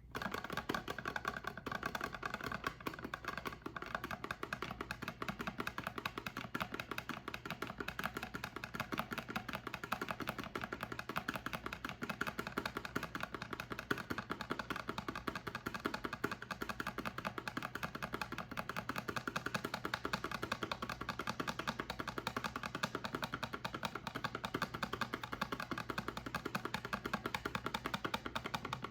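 Soap being worked by hand, giving a dense, steady run of crisp little clicks and ticks, many a second.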